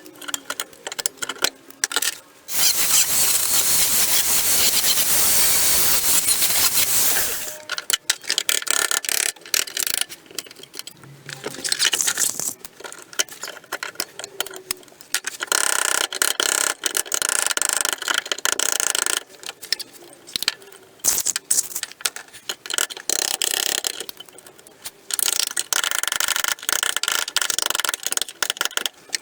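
MIG welder crackling on car body panels in repeated runs a few seconds long with short pauses between them, the way stitch or tack welds are laid. Early on there is one steadier, continuous burst of about five seconds.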